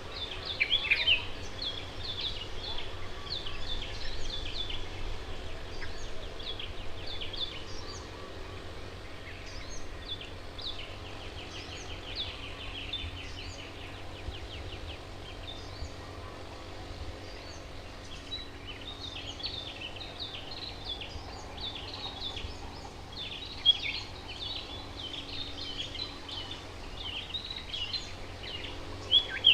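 Several wild songbirds chirping and calling in quick, overlapping phrases, with a fast rattling trill about halfway through, over a steady low background rumble.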